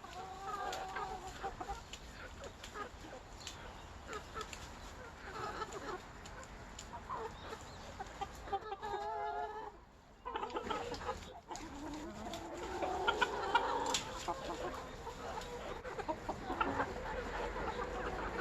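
A flock of chickens clucking, with many short calls overlapping, and a longer run of calls a little before the middle.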